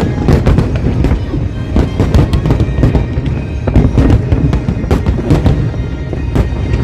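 Fireworks show with shells bursting in rapid succession, many sharp bangs over a continuous low rumble, with music playing along.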